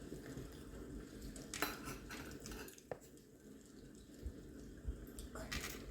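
Eating at a table: a few soft clicks and clatters of tableware, about a second and a half in, near three seconds, and again near the end.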